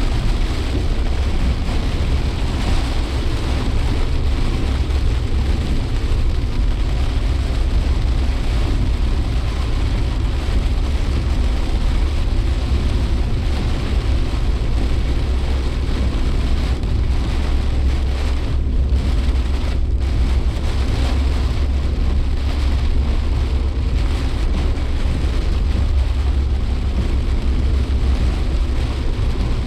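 Suzuki Jimny Sierra driving, heard from inside the cabin: a steady low engine and road rumble with an even hiss over it.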